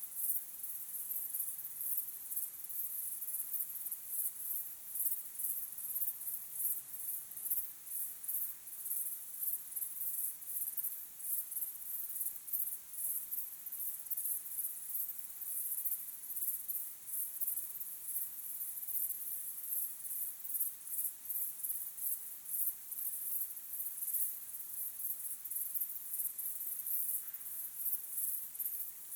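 Crickets chirping in a steady, high-pitched chorus of closely repeated chirps.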